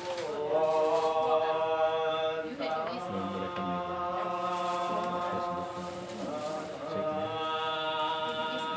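Buddhist monks chanting together in Pali, in long held notes that shift pitch every few seconds.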